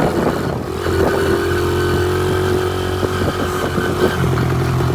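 Pit bike engine running while being ridden, holding a steady pitch after a brief dip about half a second in, with light rattling clicks over it.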